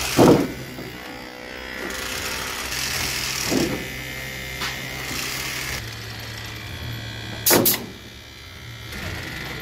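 Electric motors of a robotics prototype running with a steady whir, its pitch shifting about six seconds in. Sharp loud thumps cut through it near the start, more faintly about three and a half seconds in, and twice in quick succession about seven and a half seconds in.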